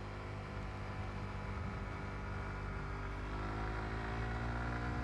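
Suzuki GSX-R125's single-cylinder four-stroke engine pulling steadily under acceleration, its pitch rising slowly.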